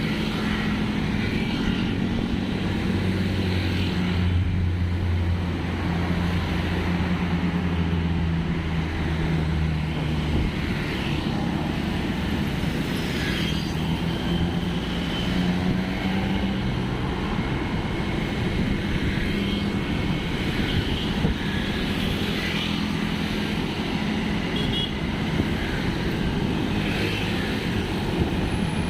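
A vehicle engine running steadily on the move, with road and wind noise throughout.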